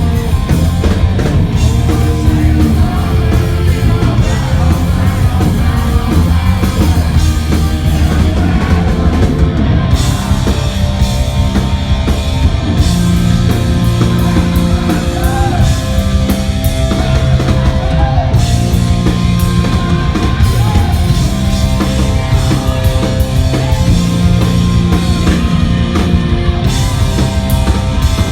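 A hard rock band playing live and loud, with a pounding drum kit, heavy bass and singing.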